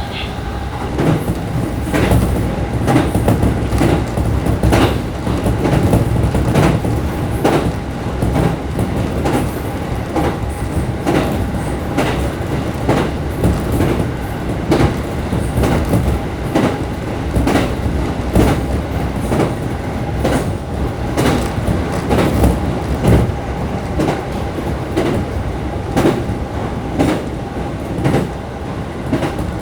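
Local passenger train running along the track: a steady rumble and hum with repeated clickety-clack of the wheels over rail joints.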